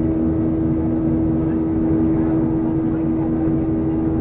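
Boeing 737-800's CFM56 turbofan engines heard from inside the passenger cabin: a steady, loud drone with a low rumble and a constant droning hum.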